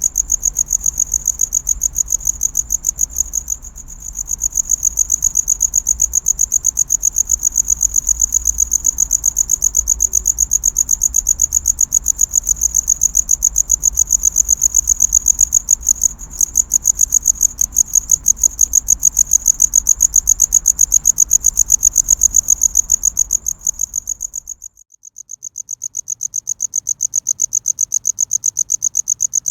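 Cricket chirping close up: a fast, even train of high-pitched pulses, the male's song to attract a mate. It breaks off briefly about 25 seconds in and then resumes.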